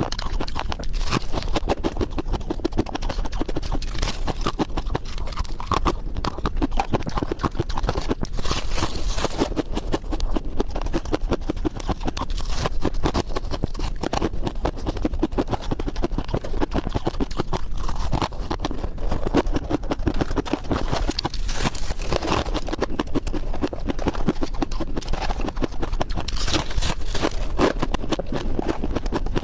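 White ice being bitten and chewed: a dense, continuous crunching and crackling.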